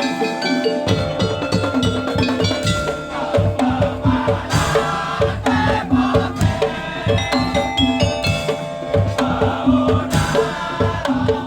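Percussion-led music with a steady beat: drums and ringing tuned percussion playing a repeating pattern.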